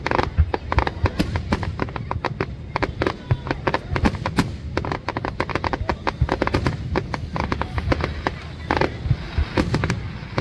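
Fireworks going off: a dense, continuous crackle of many sharp bangs each second, with a few louder bursts among them.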